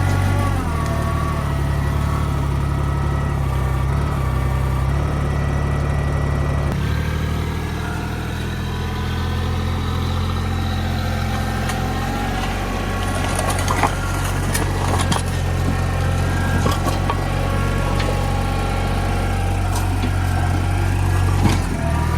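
TYM 224 compact tractor's engine running steadily, its pitch shifting slightly about a third of the way through, with a few sharp knocks in the second half.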